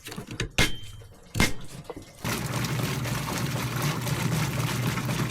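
Two sharp clicks, then, about two seconds in, a repaired 1980s KitchenAid washing machine starts running with a steady motor hum and the sound of water moving.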